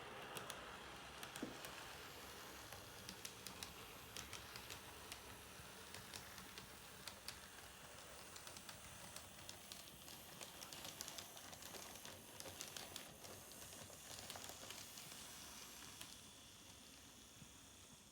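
Model train running on the layout's track: a faint steady hiss of motor and wheels with many light, irregular clicks from the rails.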